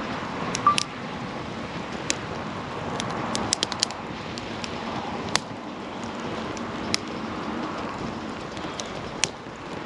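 Wood campfire crackling: sharp pops and snaps scattered irregularly, with a quick run of them around three to four seconds in, over a steady rushing noise.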